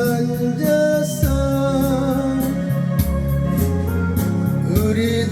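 Instrumental backing music of a Korean ballad: held melody notes over a stepping bass line and a steady light beat.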